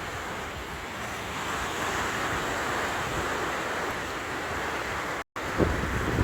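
Ocean surf washing onto a beach, a steady hiss that swells slightly midway, with wind buffeting the microphone. The sound cuts out completely for a moment about five seconds in.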